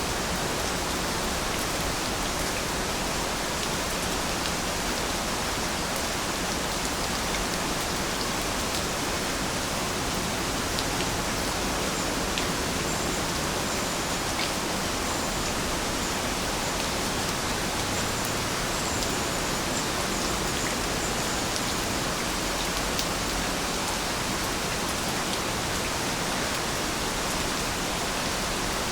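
Steady rain falling: an even hiss with a few faint individual drop ticks.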